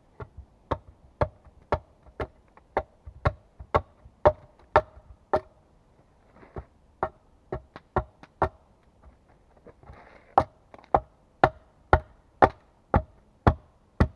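Repeated sharp blows on wood, about two a second with a short break midway, typical of chopping or hammering with an axe or hatchet while building a bushcraft table.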